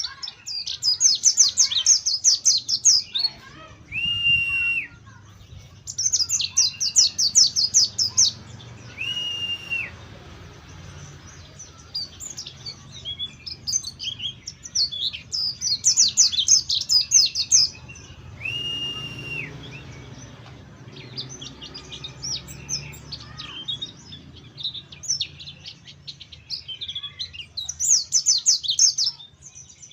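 Mountain white-eye singing in a cage: repeated bursts of rapid, high twittering song a few seconds long, with scattered chirps between them. Three single long, level whistles fall in the pauses.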